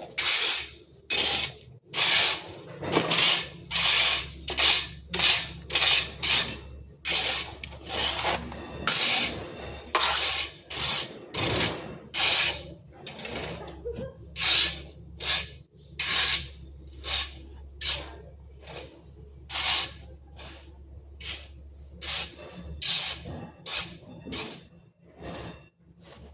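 Repeated scraping, swishing strokes of a hand garden-work tool, about one or two a second, growing weaker and more spaced out near the end.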